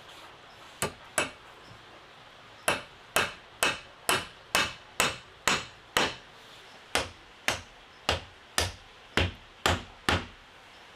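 Repeated hammer blows, about two a second: two strikes about a second in, then a run of eight, a short pause, and seven more.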